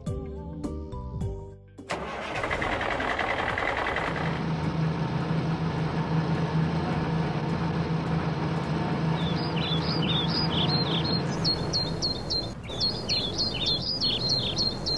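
Truck engine sound effect that starts suddenly about two seconds in and runs with a steady low hum. From a little past the middle, birds chirp in quick repeated calls over it.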